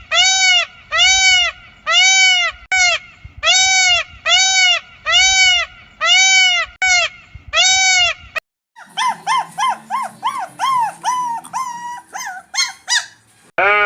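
A small animal's short, high, rising-and-falling cries, repeated evenly about twice a second. After a break, a second animal gives faster, higher cries.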